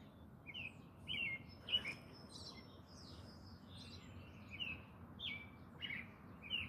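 Bird chirping: a string of short, high, quick notes, about two a second, over a faint steady background noise.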